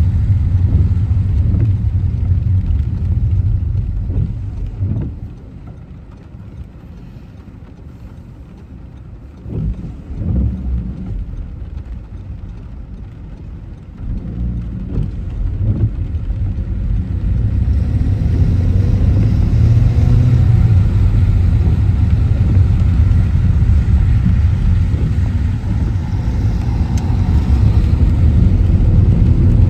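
A car driving on a city road: a steady low rumble of engine and tyres. It falls away for several seconds in the middle as the car slows, then builds again as it pulls away.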